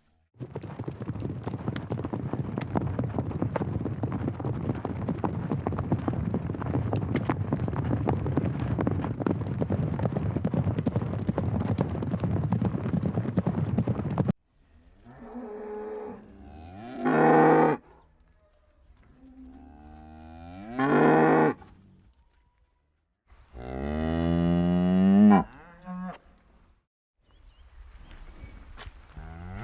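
A steady, dense noise full of small clicks for about the first half, cutting off suddenly. Then cattle mooing: several long calls a few seconds apart, each swelling to a loud end.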